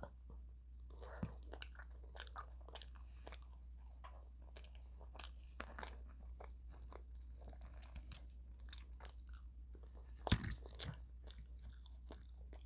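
Close-up eating of extra crispy fried chicken: faint, quick crunches and mouth clicks of chewing, with a louder crunch about ten seconds in.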